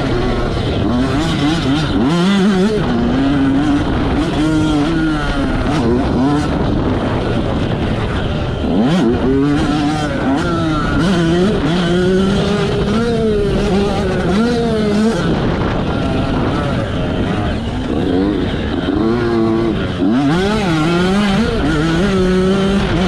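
Yamaha YZ85 two-stroke motocross engine revving hard and easing off over and over, its pitch climbing and falling every second or two as the throttle is worked, with a few sharper drops followed by fresh climbs.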